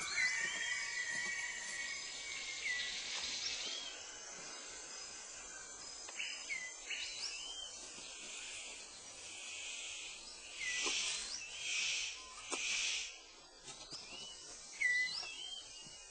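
Tropical forest ambience: steady insect trilling and repeated short upswept bird chirps. Between about ten and thirteen seconds in come three loud hissing bursts about a second apart.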